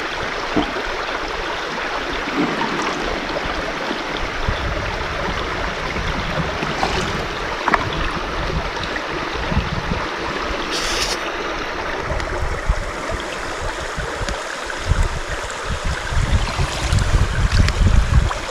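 Small brook running steadily with an even rushing sound. Low buffeting rumbles come in during the last few seconds.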